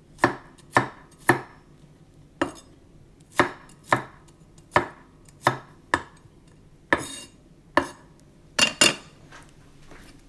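Knife chopping garlic on a cutting board: about a dozen sharp chops, unevenly spaced, two of them close together near the end.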